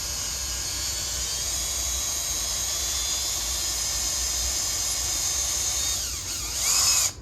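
Electric drill with a cobalt bit drilling slowly into the center of a rusted, stripped steel muffler bolt, a steady high whine. Near the end the pitch drops and it briefly gets louder, then it stops suddenly.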